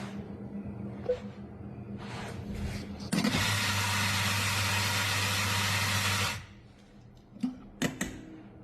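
Small electric kitchen appliance motor runs loudly for about three seconds, starting and stopping abruptly, over a steady low hum, with a few sharp clicks before and after.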